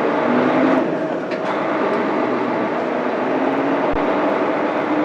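Mitsubishi Fuso Aerostar city bus's 6M70 turbo-diesel straight-six running under load as the bus pulls away from a stop, heard from inside the cabin, its engine note shifting in pitch. A brief hiss about a second in and a short thump near the end.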